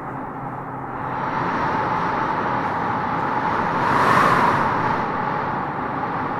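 Howling wind gusting through tropical trees, a steady rush that swells into a stronger gust peaking about four seconds in, then eases.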